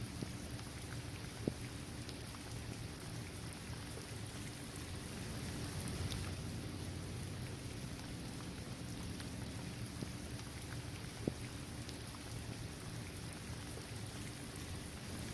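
Steady rain falling on a paved basketball court, trees and grass, with scattered individual drops ticking. Two sharper drop hits stand out, one about a second and a half in and one near the end.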